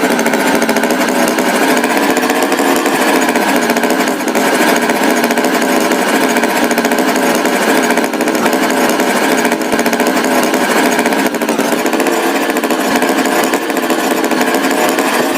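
A motor running steadily and loudly with a rattling, fast-pulsing sound.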